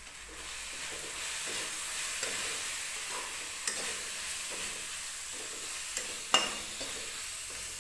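Onion-tomato masala with spices sizzling in a kadhai while a steel slotted spatula stirs and scrapes through it. Two sharp clinks cut through, the louder one about six seconds in.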